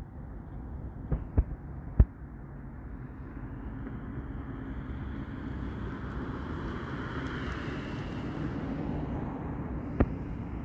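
Steady low rumble of distant engine noise, with a passing vehicle swelling up over a few seconds and fading again. A few sharp knocks: three in the first two seconds and one near the end.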